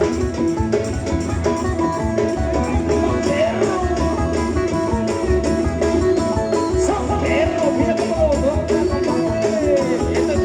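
Live band music: guitar and bass over a steady beat, with a melody line gliding above.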